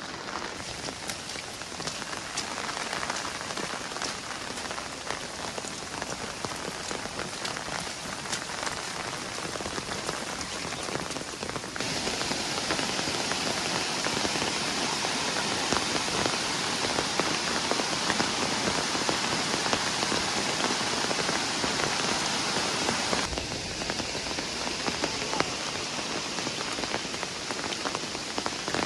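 Steady rainfall. It turns abruptly louder and brighter about twelve seconds in, then drops back somewhat about two-thirds of the way through.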